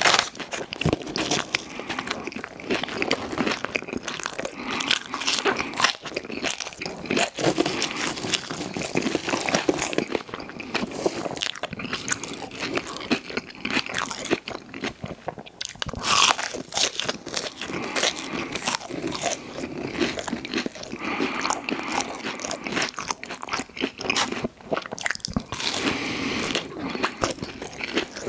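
Close-miked eating: crunchy bites and chewing, one after another, with a few louder bites.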